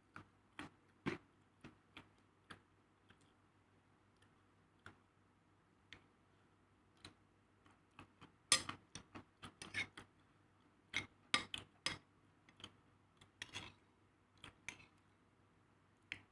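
Light, irregular clicks and taps of utensils and tableware during food preparation or eating, sparse at first and coming in quick clusters from about halfway through.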